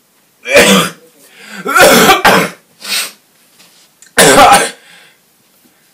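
A man coughing and clearing his throat loudly, four separate harsh bursts with short pauses between them.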